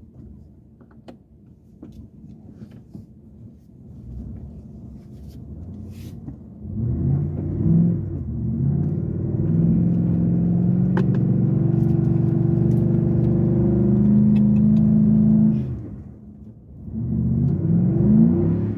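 V8 engine of an off-road vehicle, at first a low rumble, then revving up about a third of the way in and held high for several seconds with its pitch slowly climbing. It drops off suddenly, then revs up again near the end.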